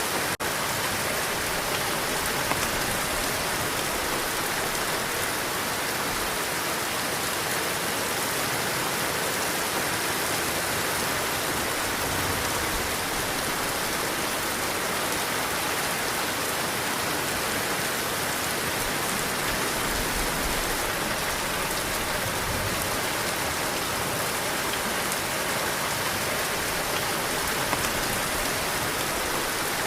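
Heavy rain falling steadily, a dense, even hiss of drops on surfaces, with a brief dip in level just after the start.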